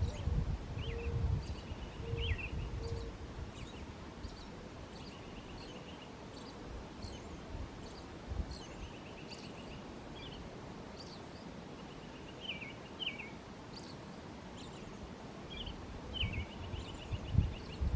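Songbirds singing, with repeated short chirps and trills. Wind rumbles on the microphone in gusts near the start and again near the end.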